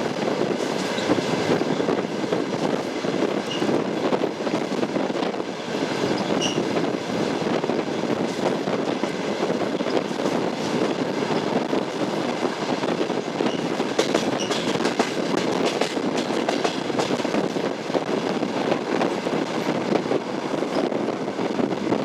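Passenger train wheels rolling on jointed track: a steady rumble with irregular clicks over the rail joints, denser about two-thirds of the way through, and a few brief faint wheel squeals.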